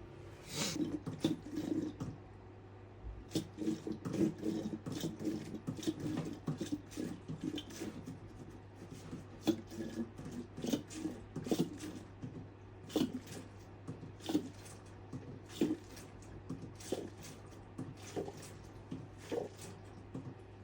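Coolant being poured from a bottle into a motorcycle radiator, glugging and gurgling in quick irregular bursts as the system fills.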